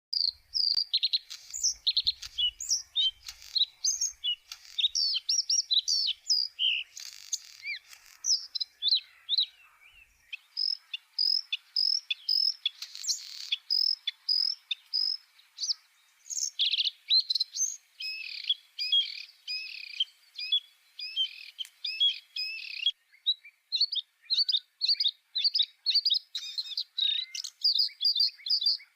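Bluethroat singing: a long, fast run of short, varied chirps and trills in quick phrases with only brief pauses, and a denser, busier stretch about two-thirds of the way through.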